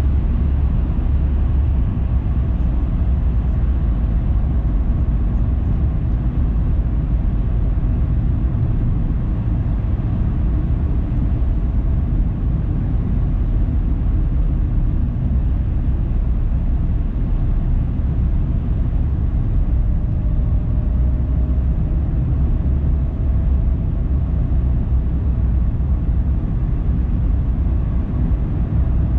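Steady low rumble of a car driving: tyre and road noise with engine hum, no sudden events.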